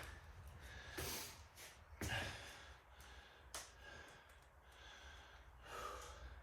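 A man breathing hard between exercise sets, a few heavy gasping breaths about a second or more apart, with one short click about halfway through.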